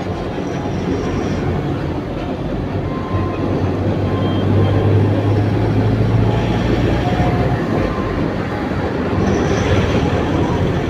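Truck in motion: a steady drone of engine and rolling noise, with a low engine hum that grows stronger around the middle.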